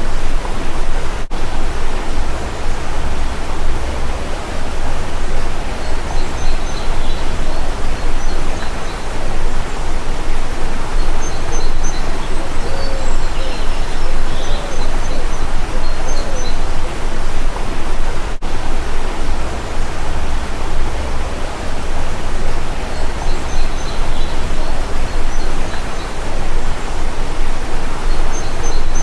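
Steady rush of a flowing stream, with small birds chirping faintly and repeatedly over it and a few short low calls now and then.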